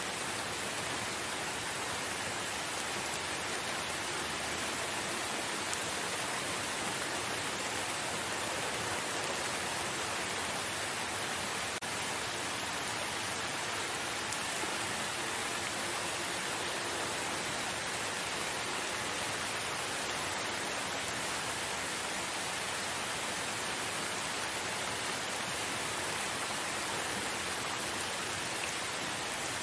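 Steady rain falling, a continuous even hiss of drops with no let-up or change.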